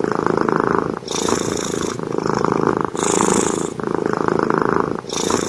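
White long-haired cat purring loudly and close up, the purr rising and falling with each breath in and out, about once a second.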